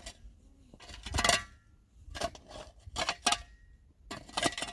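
A metal digging tool scraping and striking into stony soil about once a second, with a faint metallic ring on some strokes.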